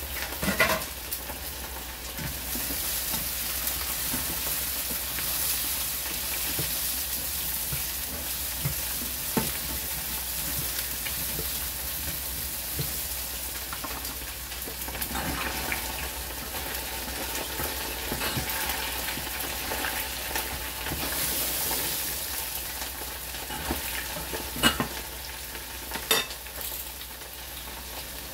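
Bell peppers and white onion sizzling as they are stir-fried in a frying pan, with a steady hiss. A spatula scrapes and knocks against the pan now and then, with a few sharp taps near the end.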